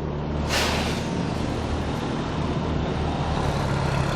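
Diesel engines of big rally-raid trucks running at the start line, a steady low hum. About half a second in, a sudden loud hiss breaks in and fades away over the next second.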